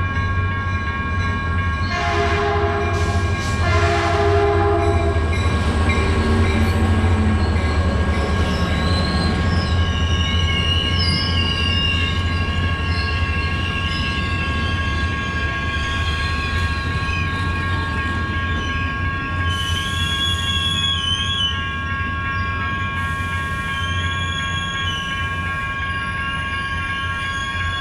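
Caltrain diesel-hauled passenger train passing a grade crossing, with a steady heavy rumble throughout. The horn sounds two short blasts, about two and four seconds in. From about ten seconds in, high wavering wheel squeal rises over the passing cars.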